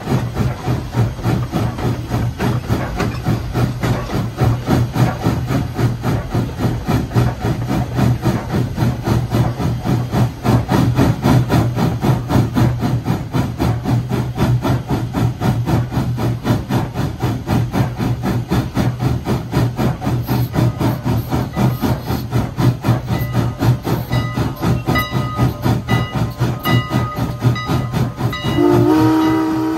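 A steam train running, with a fast, even chugging rhythm. Near the end its steam whistle starts one long, steady blast.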